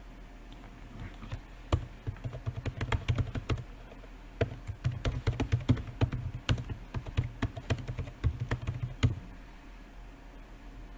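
Typing on a computer keyboard: two quick runs of key clicks with a short pause between, starting about two seconds in and stopping about nine seconds in.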